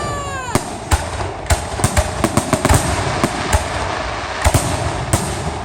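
Aerial fireworks bursting in a rapid, irregular string of bangs over continuous crackle, with a falling whistle right at the start.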